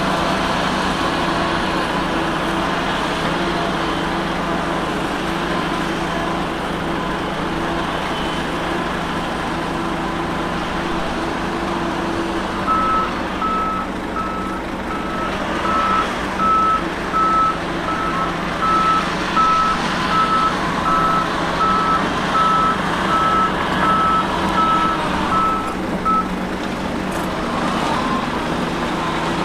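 Diesel engine of heavy earthmoving machinery running steadily. From about 13 seconds in until a few seconds before the end, a reversing alarm beeps at a steady, even rate: a machine is backing up.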